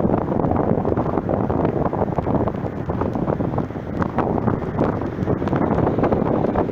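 Wind buffeting the microphone: a steady, dense rumble with irregular crackling gusts.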